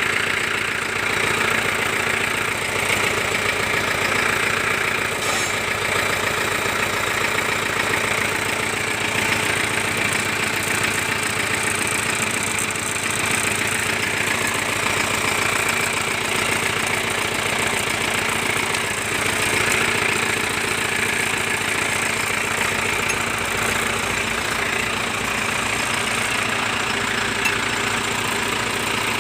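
Shibaura SD 4000 tractor's diesel engine idling steadily.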